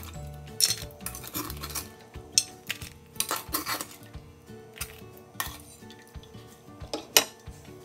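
Utensils clinking and scraping against cookware while cooking seafood, in about a dozen irregular sharp strikes, the sharpest about seven seconds in. Background music plays underneath.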